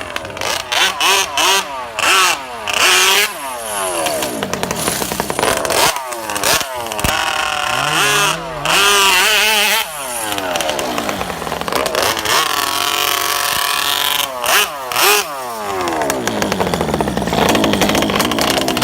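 Gas-powered RC car engine revving hard, its pitch rising and falling again and again as the car speeds up, slows and passes.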